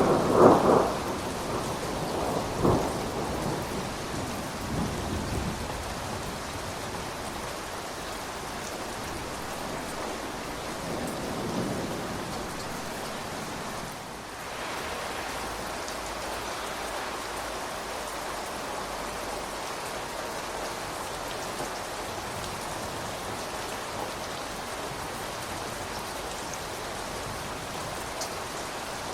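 Steady rain falling, with a loud rumble of thunder at the start that rolls on and fades over the first few seconds. A fainter rumble comes about eleven seconds in, then only the even hiss of the rain.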